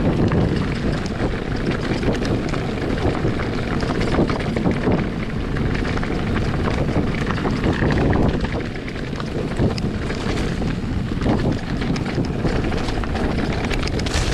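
Wind buffeting the action camera's microphone during a mountain-bike trail ride, over a steady rumble of tyres on the dirt path with many small clicks and rattles.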